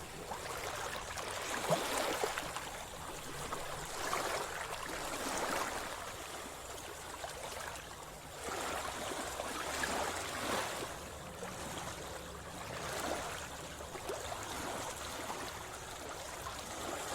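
Seawater sloshing and splashing at the surface, swelling and fading about every two seconds, as from swimming strokes or gentle waves.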